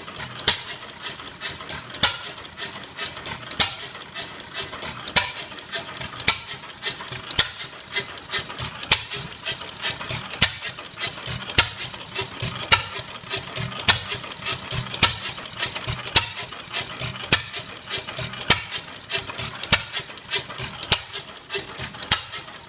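A circa-1923 Novo hit-and-miss gas engine, about 1 hp, running steadily. It makes a regular train of sharp clicks and knocks, several a second, with a louder stroke roughly every second.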